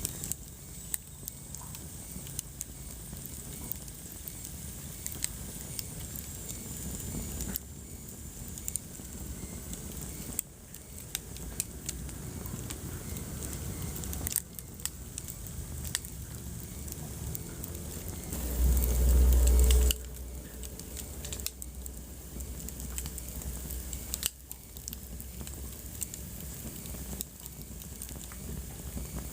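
Wood fire crackling in a fireplace: scattered sharp pops and snaps over a soft hiss. A brief low rumble comes about two-thirds of the way through.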